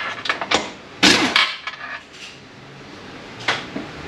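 Sharp metallic clinks and knocks of hand tools and steel transmission parts being handled on the bench: a cluster of separate strikes in the first second and a half, then one more near the end.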